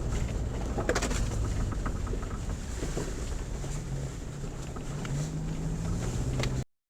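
Car driving, heard from inside the cabin: a steady rumble of engine and road noise, with the engine note rising about five seconds in. The sound cuts off suddenly near the end.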